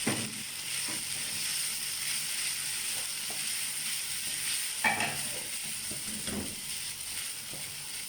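Sausage and noodle mixture sizzling steadily in a frying pan on a low flame, with a utensil stirring it and knocking or scraping against the pan a few times.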